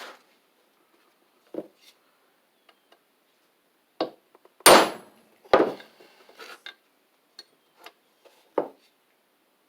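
Hammer blows on a bolt used as a drift, driving the camshaft pin out of a Briggs & Stratton WMB engine block. There are a handful of scattered strikes, the hardest two close together about five seconds in, the first ringing metallically.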